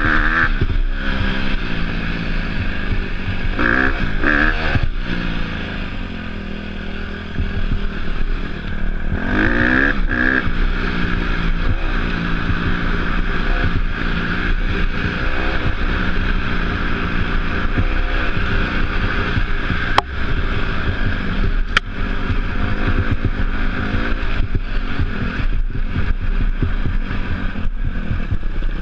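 Off-road motorcycle engine being ridden, revving up and falling back again and again as the throttle is worked, with steady rushing noise over it. Two sharp knocks near the end.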